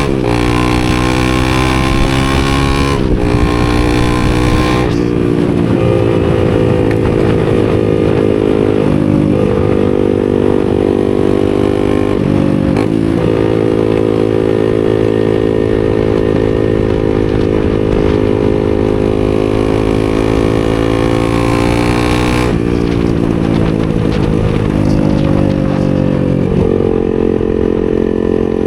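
250cc supermoto motorcycle engine running at steady revs under way, held for long stretches with several brief dips in pitch that recover quickly.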